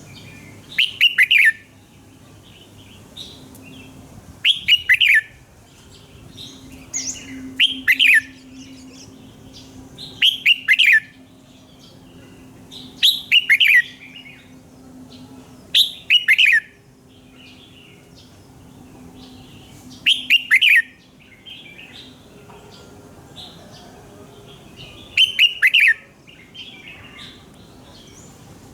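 Red-whiskered bulbul singing: short, loud song phrases of quick falling notes, about eight of them, repeated every few seconds with softer chirps in between.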